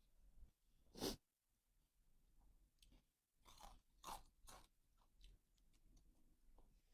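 A person eating a bowl of boat noodles with pork cracklings, faintly chewing, with several short, sharper eating noises; the loudest comes about a second in and a quick cluster follows a few seconds later.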